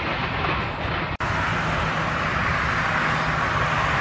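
Steady rumble and rush inside a passenger train carriage as the train runs. The sound cuts out for an instant about a second in, then carries on.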